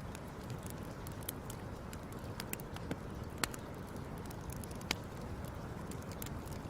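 Fire crackling: irregular sharp pops and snaps over a low steady rumble, with two louder pops about three and a half and five seconds in.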